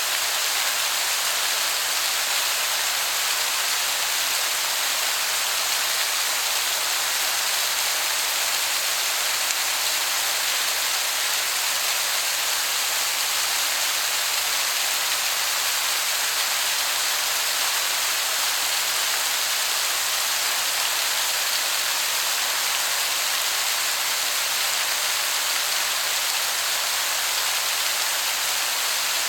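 Waterfall heard from a distance as a steady, even hiss, sounding like heavy rain.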